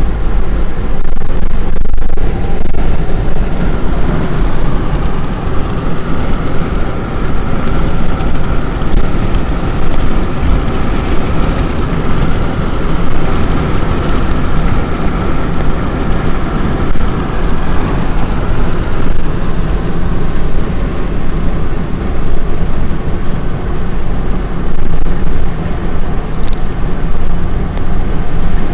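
Car driving at road speed with a side window rolled down: a loud, steady rush of wind and road noise inside the cabin, with a low rumble underneath.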